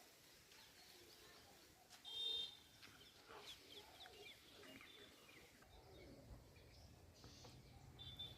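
Faint bird calls and short high chirps, with one louder call about two seconds in; a low steady hum comes in near the end.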